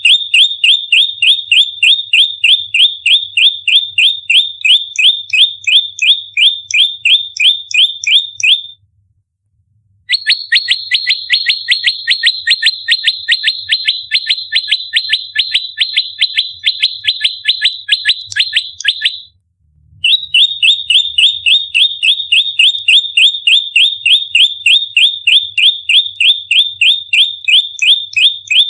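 Prenjak lumut calling in fighting mode: a rapid, tightly spaced string of sharp, high chirps, several a second. The string breaks off twice for about a second; after the first break the notes come faster and a little higher.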